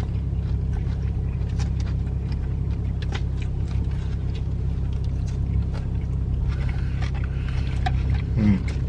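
Steady low rumble of a car's engine idling, heard from inside the cabin, with scattered faint clicks and taps.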